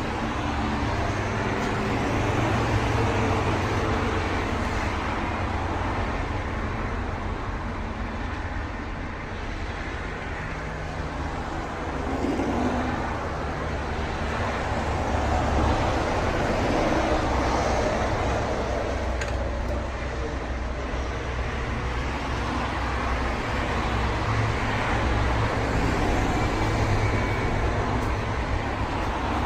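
Steady car noise: an engine running with road and traffic noise, swelling and easing slowly in loudness.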